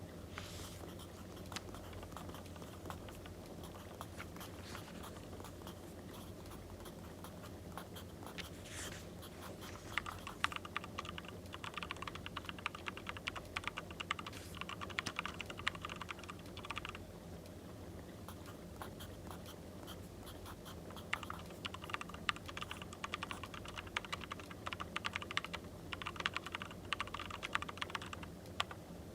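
Two bursts of rapid, fine clicking and scratching from desk work during study, each lasting several seconds, over a faint steady background hum. Short swishes come near the start and about nine seconds in.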